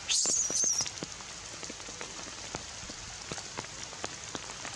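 Steady rain falling, with scattered individual drops hitting surfaces. In the first second a baby monkey gives a short, high-pitched, wavering cry.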